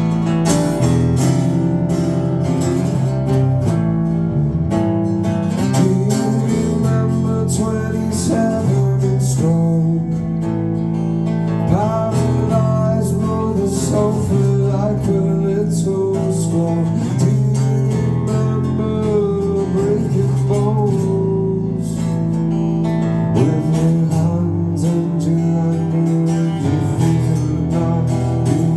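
Live band music led by a strummed acoustic guitar, an instrumental passage between sung lines of a song.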